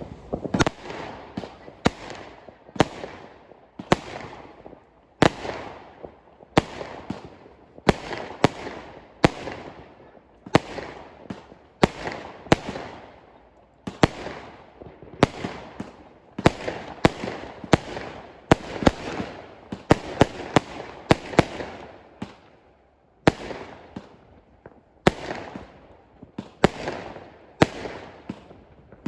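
Fireworks going off in a steady run of sharp bangs, about one to two a second, each followed by a fading rumble of echo.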